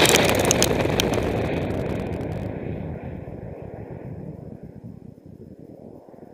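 High-power rocket's N2801 Skidmark motor roaring just after liftoff, loudest at the start with sharp crackles over the first couple of seconds, then a rumble fading away steadily as the rocket climbs out of earshot.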